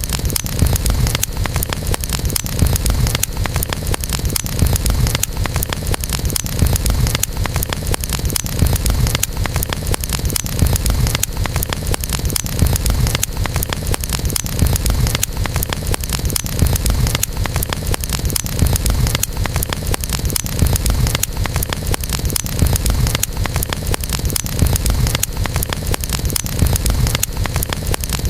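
Campfire burning: wood crackling in frequent small snaps over a steady low rumble of the flames.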